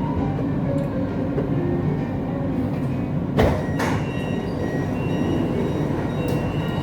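Siemens Inspiro metro train running on the line, heard from inside the car: a steady rumble of wheels on rail, with two sharp knocks close together about three and a half seconds in.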